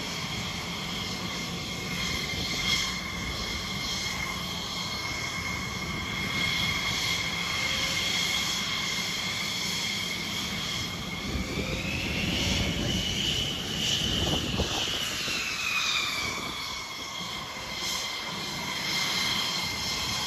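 Jet engines of display aircraft taxiing toward the runway, a steady high whine over a low rumble. About twelve seconds in the whine rises in pitch and grows louder, then falls back about five seconds later as one engine comes closer and passes.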